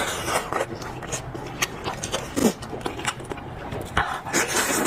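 A person eating meat off a lamb's head close to the microphone: wet chewing and many short irregular mouth clicks, with breaths.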